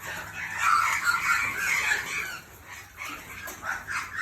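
A flock of birds calling over one another at feeding time, a dense clamour that is loudest for the first two seconds or so and then thins out.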